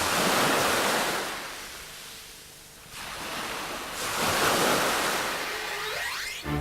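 Two swells of rushing noise like waves breaking and washing back, the first at the start and the second about four seconds in, with a short rising whistle near the end.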